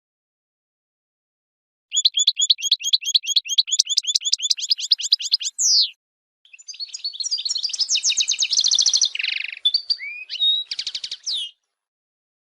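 Goldfinch song. About two seconds in, a fast trill of evenly repeated high chirps, roughly eight or nine a second, ends in one downward-sliding note. After a short pause comes a more varied twittering phrase with a buzzy stretch, which stops about a second before the end.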